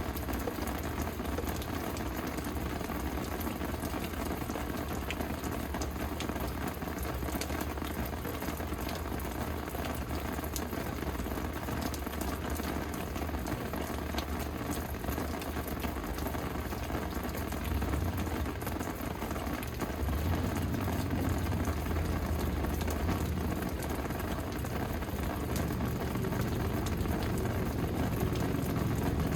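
Steady rain falling, with a dense patter of individual drops. Under it a low rumble swells a little about two-thirds of the way in and again near the end.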